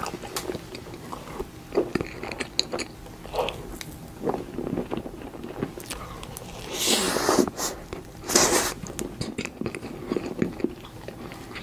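Close-miked eating of soft cake: wet chewing, lip smacks and small mouth clicks. Two louder rasping noises come a little past the middle, the first about half a second long.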